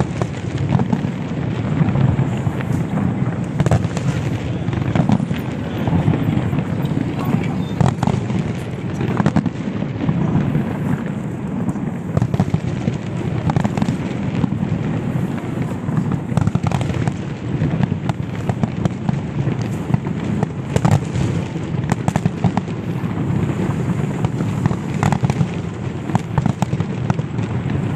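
Aerial fireworks display going off without a break: many overlapping bangs and crackles over a steady low rumble.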